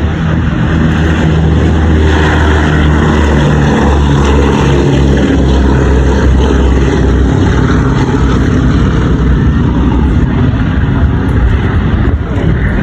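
Propeller aircraft flying past loud and close, its engine drone holding steady.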